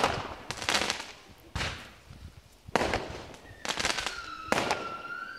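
Fireworks going off: a series of loud bangs with crackling tails, about one a second, and a high whistling tone sounding from about two-thirds of the way in.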